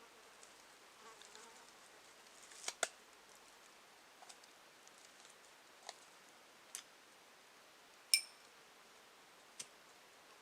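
A handful of short, sharp clicks and knocks over a faint steady hiss: a quick pair about three seconds in, then single ones spaced a second or more apart. The loudest, about eight seconds in, is a clink with a short metallic ring.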